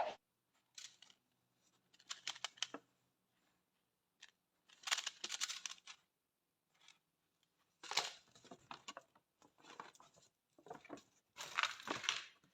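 Gift packaging being opened by hand: four short spells of rustling and tearing, roughly every three seconds, with small clicks and knocks in between.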